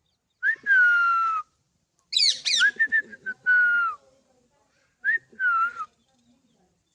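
Alexandrine parakeet giving harsh, whistled calls in three bursts, each sliding down in pitch, with quick high sweeps in the middle burst.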